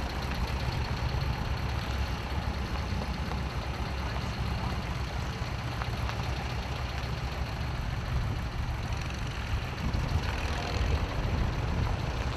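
Tractor engines idling, a steady low rumble.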